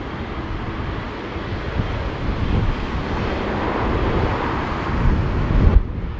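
Jet airliner engines running as the aircraft passes, with gusty wind buffeting the microphone. The jet noise cuts off suddenly just before the end, leaving the low wind rumble.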